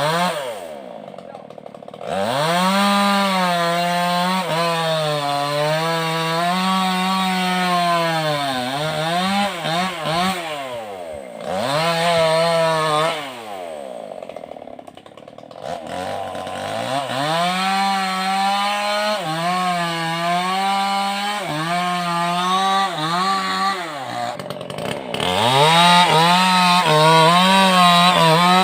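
Two-stroke chainsaw with a Stihl chain cutting wood. The engine note sags each time the chain bites and rises again between passes, with a few short drops in revs.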